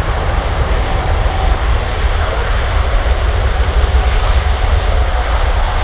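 Boeing 777's jet engines in reverse thrust as the airliner slows on the runway after landing: a loud, steady rumble, heaviest in the low end.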